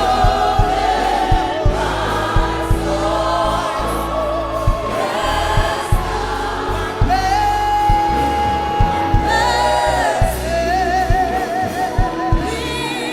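Gospel worship song: voices sing held, wavering notes over a band with regular drum hits.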